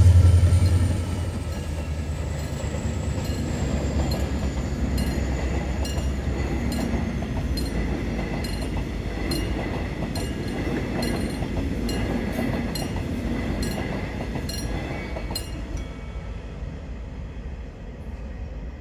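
A Korail diesel locomotive's deep engine hum passes close and drops away about a second in. The unpowered cars of a new subway train it is hauling then roll past with steady wheel noise and regular clicks over the rail joints, fading near the end.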